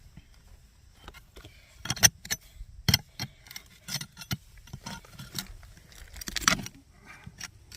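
Irregular sharp clinks and knocks of stone as a rock is dug and pried out of the ground, with the loudest knocks about 2 and 3 seconds in.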